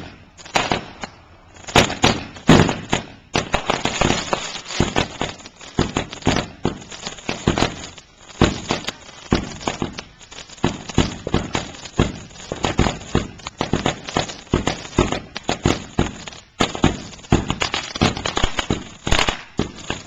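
Consumer fireworks going off in a rapid, irregular string of sharp bangs and pops, several a second, thickening into dense crackling a few seconds in.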